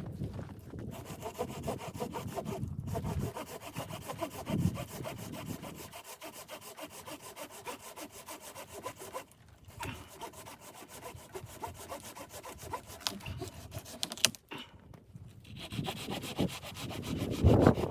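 Saw cutting through wood in a steady run of rasping strokes, with a couple of brief pauses.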